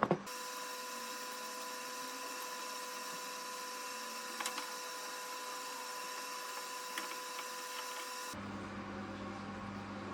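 A small electric power tool motor running steadily with a high, even whine and a few light clicks. About eight seconds in, it cuts abruptly to a lower-pitched steady hum.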